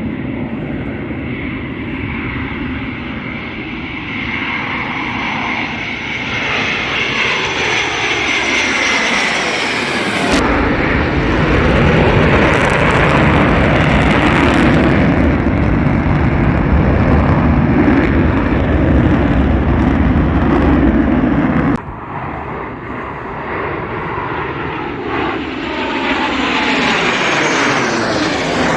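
Blue Angels jet aircraft flying past low, a loud roar that falls in pitch as it sweeps by. The sound changes abruptly about ten seconds in to a louder, deeper roar, then drops back about twenty-two seconds in.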